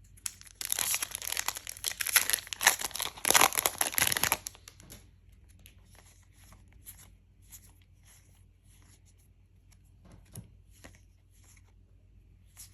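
A trading-card booster pack's wrapper being torn open, a few seconds of loud crinkling and ripping, followed by faint soft clicks and rustles of the cards being handled.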